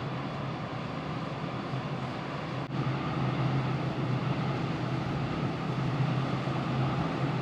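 Steady low hum of a ferry's engines under way under an even wash of wind and sea noise. There is a brief break about three seconds in, and it is a little louder after it.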